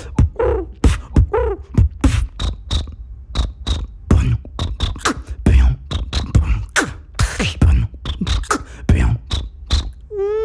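Vocal beatboxing: a fast, steady beat of mouth-made kick and snare strokes. In the first couple of seconds it is woven with short arching pitched vocal sounds, and later with brief high chirps, as animal-sound imitations.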